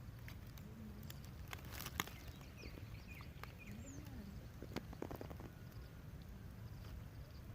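Faint outdoor ambience: a steady low rumble with scattered sharp clicks and a few short high chirps.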